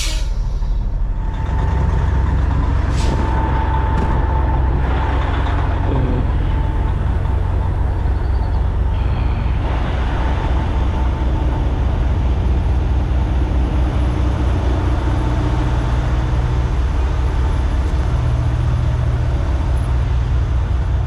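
Semi-truck diesel engine running steadily, growing louder about a second and a half in.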